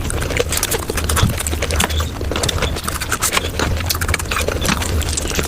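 Close-miked mukbang eating sounds sped up about five times: a dense run of rapid crunching, smacking and sticky mouth clicks from chocolate and ice cream being chewed, over a steady low hum.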